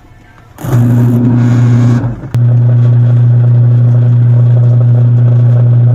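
Single-tub washing machine's wash motor switched on and running, driving the pulsator by belt with a steady hum; it starts less than a second in, stops briefly about two seconds in, then runs on. The motor now turns freely, its dried-out bushing that had seized on the shaft having been freed and oiled.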